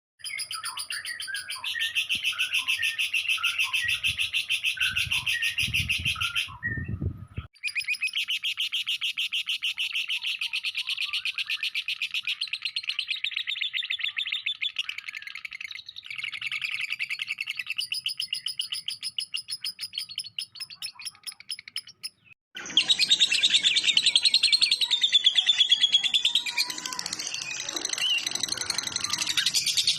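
Lovebird singing a long ngekek trill: a fast, unbroken chatter of rapid repeated notes, pausing briefly twice. After a pause about 22 seconds in, the song turns louder and more varied.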